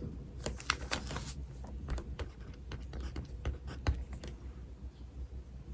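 Pen writing on paper: irregular scratchy strokes and light taps, busiest in the first second or so, over a steady low hum.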